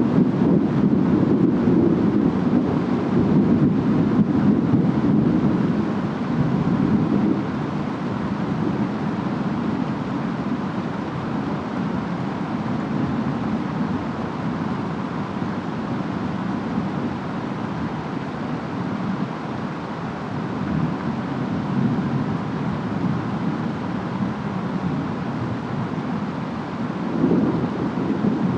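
Distant thunder rumbling low over steady rain and wind. The rumble is strongest over the first several seconds, eases off, then swells again near the end.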